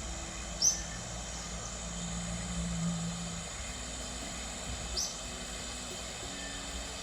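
Steady rush of a flowing creek, with a bird giving a short, high, down-slurred chirp twice, about four seconds apart.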